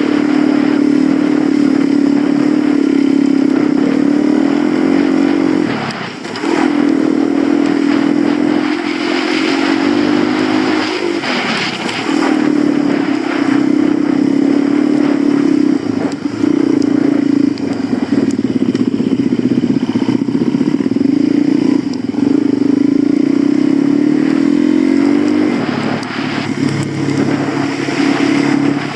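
Suzuki DR-Z400 single-cylinder four-stroke dirt bike ridden hard, its engine note repeatedly climbing in pitch and then dropping back, with rushing noise over it.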